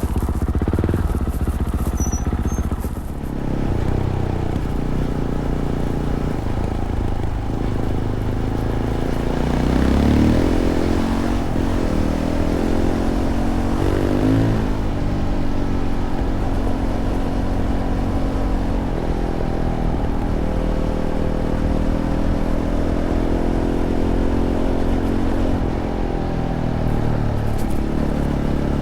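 Fantic Caballero 500's single-cylinder four-stroke engine through its stock Arrow exhaust, running steadily under way, with the revs rising and falling briefly twice about a third and halfway through.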